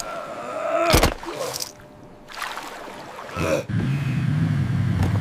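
Added sound effects: a sharp hit about a second in, then from about three and a half seconds a low, slightly wavering engine hum like a jet ski idling.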